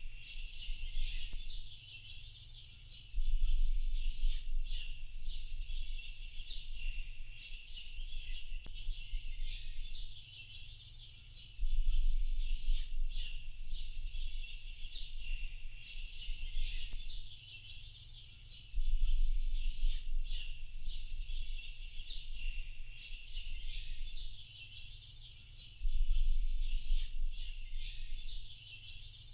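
A dense chorus of many small birds chirping and trilling without pause, under a low rumble that swells in for a few seconds about every seven seconds.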